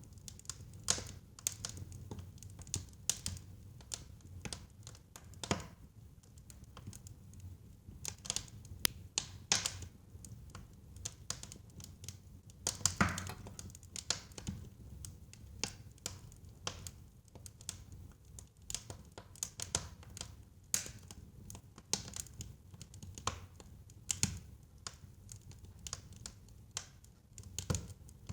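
Wood fire burning in a fireplace: irregular sharp crackles and pops over a low steady rumble of the flames, with one louder pop about halfway through.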